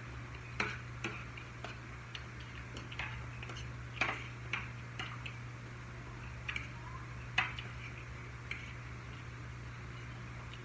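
Eating sounds: a dozen or so small irregular clicks and crunches of chewing and handling food, over a steady low hum.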